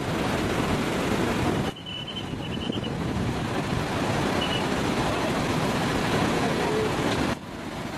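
Steady loud rushing noise that drops suddenly twice and builds back up, with a few faint high chirps near the start.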